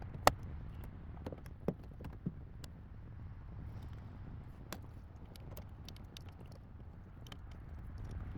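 Scattered light clicks and knocks of hands working on car wiring with tools, the loudest a sharp click about a quarter second in, over a low steady rumble.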